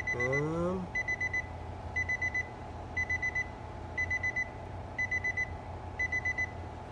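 Vehicle warning chime beeping in groups of four quick high-pitched beeps, repeating once a second, over a low steady hum. A short voiced sound rises in pitch in the first second.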